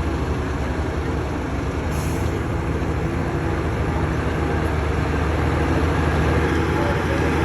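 Truck engine running steadily and growing a little louder in the second half, with a short hiss about two seconds in.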